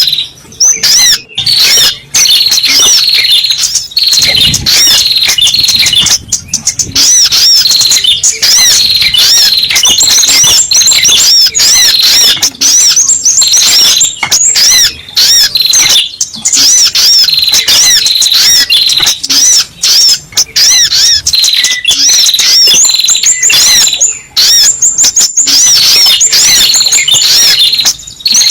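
Little spiderhunter (sogok ontong) calls used as a bird lure: a dense, loud stream of rapid, high chirps repeated almost without pause.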